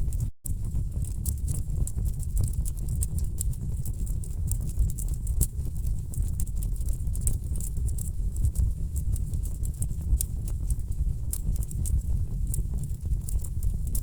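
Wood fire burning in a fireplace: dense, irregular crackling and popping of the logs over a steady low rumble of the flames. The sound cuts out for a split second about half a second in.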